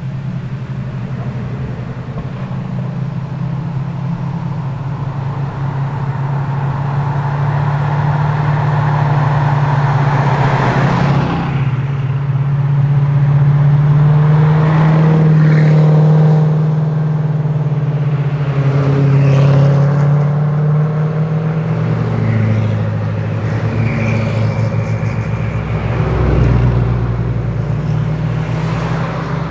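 Koenigsegg hypercars' twin-turbo V8 engines running at low revs as the cars drive by one after another. A steady low drone swells as each car passes, with a few short revs that rise and fall.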